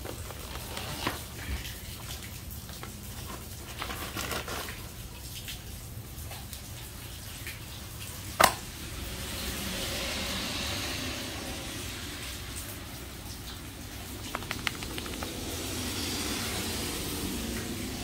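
Steady rain falling and dripping, a soft hiss that swells now and then, with scattered small taps and one sharp loud click about halfway through.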